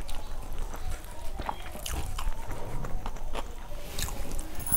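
Close-miked mouth sounds of someone chewing a mouthful of rice and curry: wet smacking and small clicks, irregular throughout.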